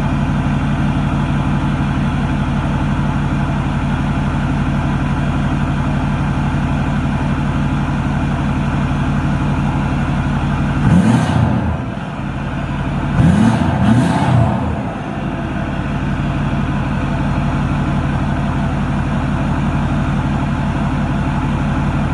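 2010 Ford F-250's 6.4-litre Power Stroke V8 diesel idling steadily through a stock 4-inch exhaust fitted with a 7-inch tip, a deep exhaust note. About halfway through it is revved briefly three times, once and then twice in quick succession, before settling back to idle.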